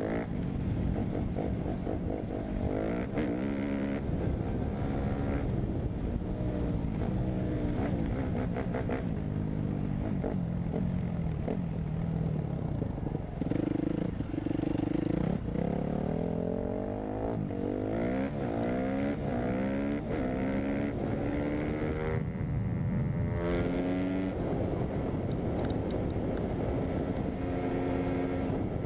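Dirt bike engine revving hard and shifting through the gears, its pitch climbing and dropping again and again as the rider speeds up and backs off.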